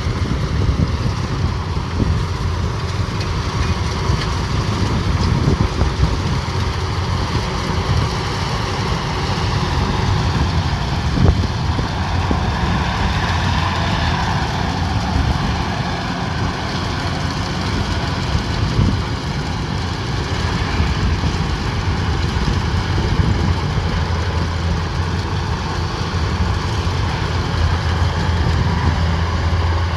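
Combine harvester running steadily, with an even engine drone.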